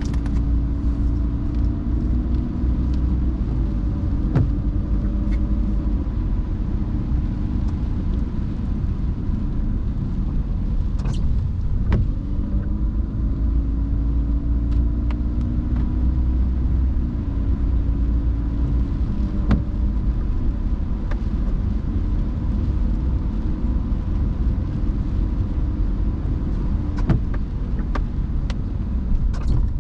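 A car driving on rain-wet roads: a steady low rumble of engine and tyres with tyre hiss, the engine note shifting in pitch as speed changes. Scattered sharp clicks come at irregular times.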